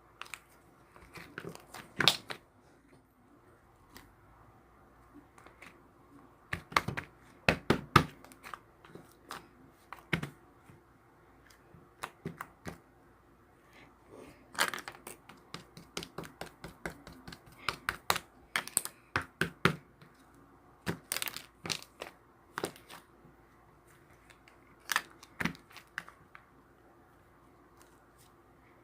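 Hands handling thin material, with scattered crinkles, rips and sharp taps coming in irregular clusters.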